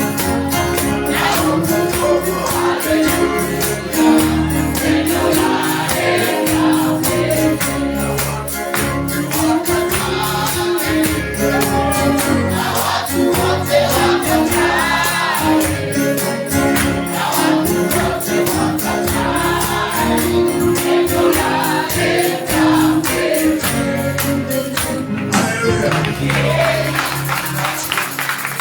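Gospel praise and worship song: group singing over a band, with a tambourine shaking a steady fast beat. The tambourine stops about three seconds before the end while the music carries on.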